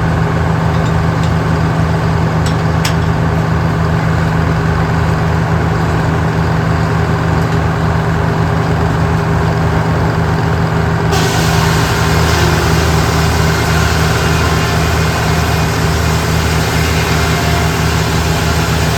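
Large engine running steadily. About eleven seconds in, a hiss joins it.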